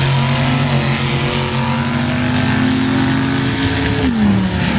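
Sand drag truck engine at wide-open throttle, holding steady high revs through the run, then dropping sharply in pitch near the end as the throttle is lifted at the finish.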